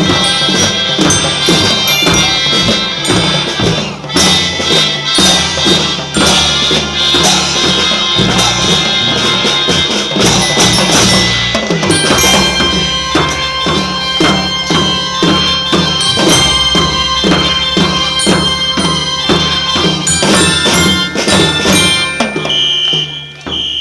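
Kindergarten children's marching band playing a march: a steady melody of held notes over regular drum and percussion beats, dipping briefly near the end.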